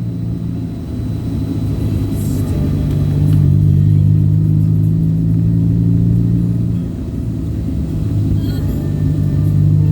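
Motor vehicle engine running steadily under a low road rumble while driving. The engine hum drops back about seven seconds in, then builds again near the end.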